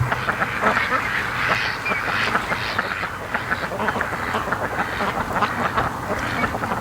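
A flock of domestic ducks, white Pekins, quacking continuously in many short overlapping calls.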